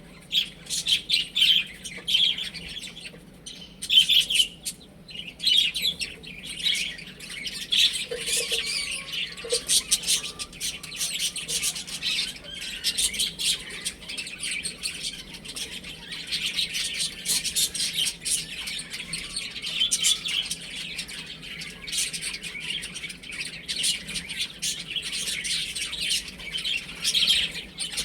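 Baby chicks peeping, many short high calls overlapping one after another without a break.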